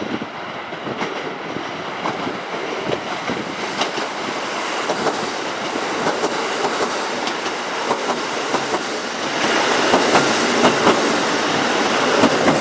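Train running along the rails, its wheels clicking over rail joints, growing louder toward the end.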